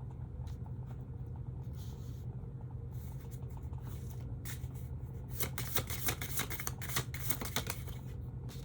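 A deck of tarot cards being shuffled by hand, with a few seconds of rapid card flicks past the middle, over a steady low hum.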